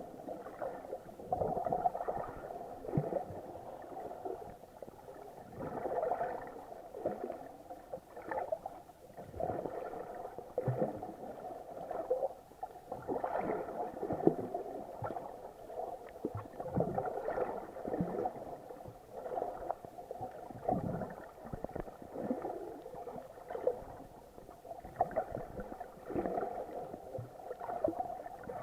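Water heard through a submerged action-camera housing: muffled gurgling and sloshing in irregular surges every second or so, over a faint steady hum.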